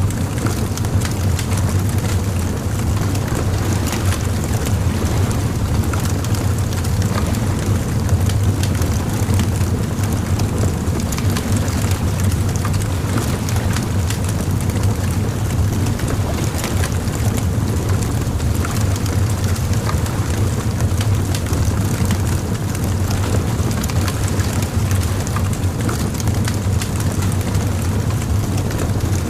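Bonfire crackling, with many small sharp pops scattered through it, over a steady low rumble.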